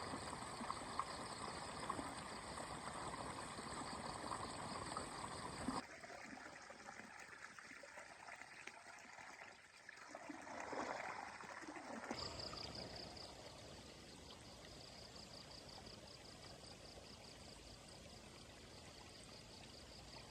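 Water running and trickling, with a steady high pulsing tone behind it. The sound changes abruptly twice, about six and twelve seconds in.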